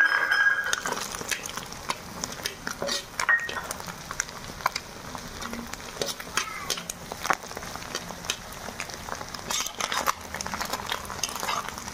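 Scrambled egg with chopped ginger and garlic frying in oil in a wok: a steady sizzle, with irregular scrapes and clinks of a slotted steel spatula against the pan as it is stirred.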